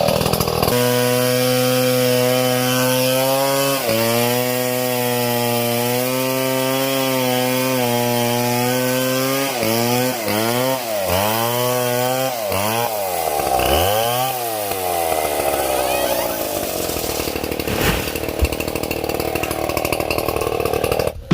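Small chainsaw engine running at a steady high speed with a brief dip about four seconds in. It is then throttled down and back up several times in quick succession, and near the end it turns rougher and noisier as the chain bites into wood.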